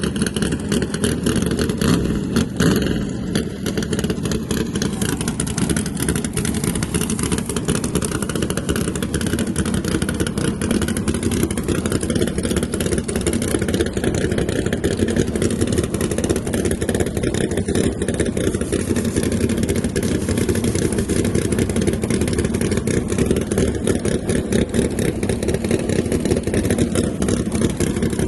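Drag car engine running loudly and steadily, with a dense low, rough exhaust sound and no clear revs up or down.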